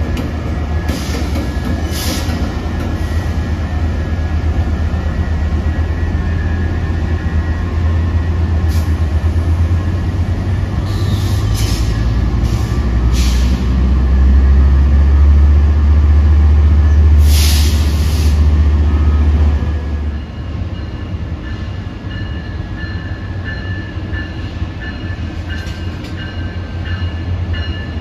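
Diesel passenger train running at the platform. Its deep engine rumble builds to its loudest about two-thirds of the way through, then drops off abruptly. Several short hissing bursts come and go, and faint high squeals are heard near the end.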